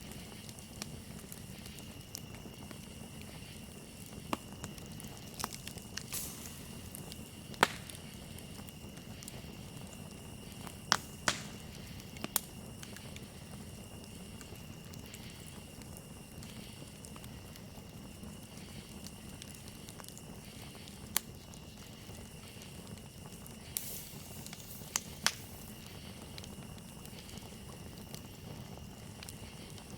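Campfire crackling, with scattered sharp pops, a few of them loud, over a steady high chorus of crickets.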